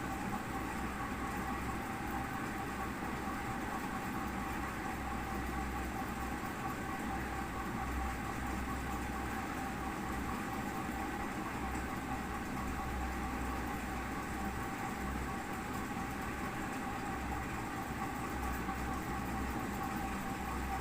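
Steady mechanical hum with a low rumble and a constant mid-pitched tone, unchanging throughout.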